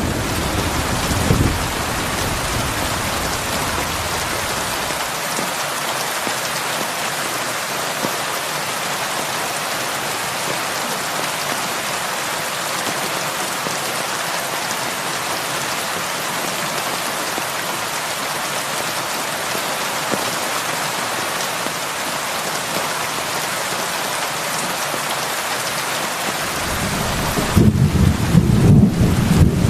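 Heavy rain falling in a steady, even hiss. A low rumble of thunder fades out in the first second or so and swells again near the end.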